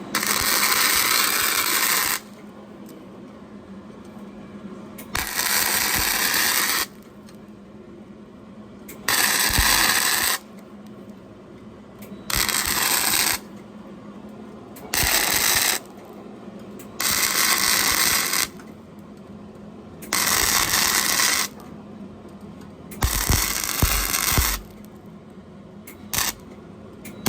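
Welding arc crackling in short bursts of one to two seconds, about eight in all with pauses of a few seconds between, as short stitch welds are run along a corner of thin sheet metal. A steady low hum fills the gaps.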